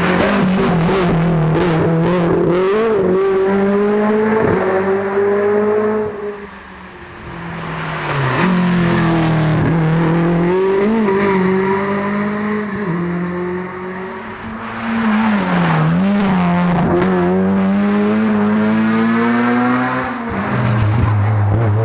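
Rally car engines revving hard, their pitch rising and falling again and again through gear changes, over about three loud passes with brief dips between them. A few sharp cracks come through, near the start and later on.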